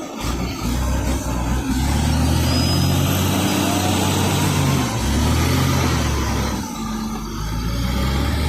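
Nissan TZA 520 dump truck's diesel engine running while driving, a steady low drone that drops away briefly a few times before coming back.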